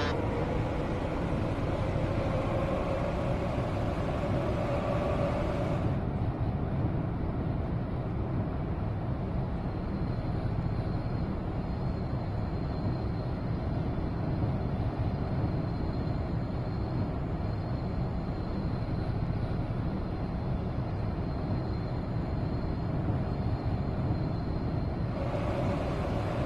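Seoul Metro Line 2 electric subway train running, heard from inside the car: a steady low rumble of wheels and running gear. Over the first few seconds a motor whine rises in pitch, then settles.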